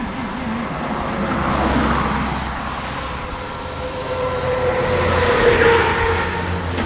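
1948 Plymouth's flathead six-cylinder engine running, its revs rising and falling twice.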